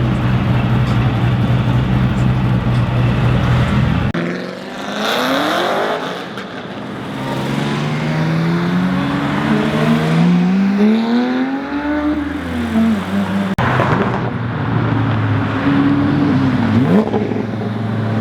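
Car engines running loudly, then several cars accelerating away and passing, their engine pitch climbing and falling through the revs.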